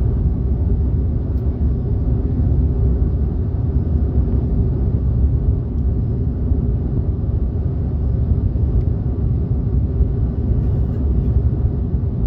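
Steady low rumble of an Airbus A330-300 airliner's cabin noise, heard from a passenger seat.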